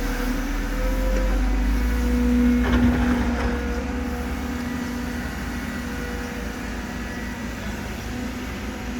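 Cat 313D2 GC excavator's diesel engine running steadily, growing a little louder about two seconds in and then easing, with a brief clatter about three seconds in.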